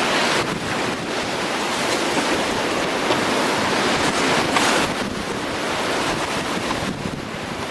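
Whitewater of Colorado River rapids rushing and splashing around a raft, a steady loud roar of water, with wind buffeting the microphone.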